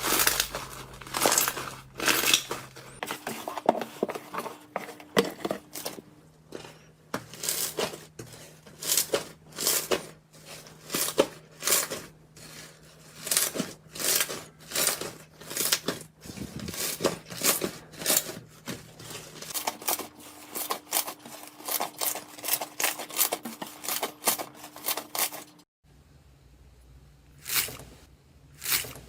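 Slime being squeezed and poked by hand, giving a dense run of sharp crackling pops and clicks, several a second.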